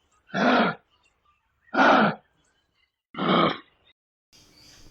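Kangaroo giving three short, hoarse grunts about a second and a half apart.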